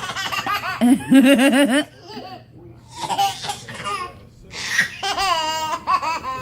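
A baby laughing in three bursts of quick, repeated laughs, with a lower-pitched laugh joining in about a second in.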